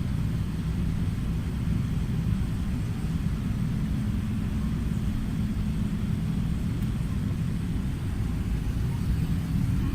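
Steady low rumble of an Airbus A380's engines and airframe heard from inside the passenger cabin, with a faint steady drone in it and no rise or fall in pitch.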